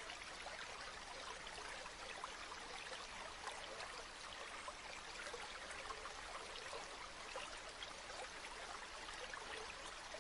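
River water flowing steadily: an even wash of sound full of small trickles and splashes.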